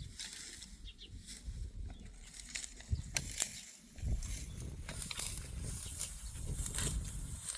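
Dry stalks rustling and crackling with scattered sharp snaps, over a low uneven rumble of wind on the microphone.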